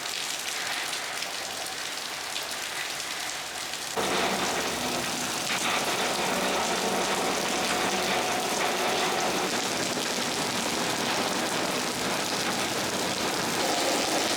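Rain falling steadily, a continuous hiss of drops on outdoor surfaces. About four seconds in it gets louder and fuller, with a low steady hum underneath.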